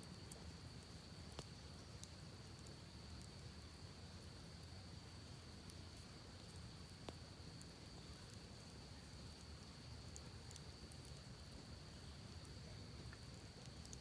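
Campfire crackling faintly: scattered small pops and ticks, with two sharper pops about a second and a half in and about seven seconds in, over a soft low hiss and a steady high-pitched whine.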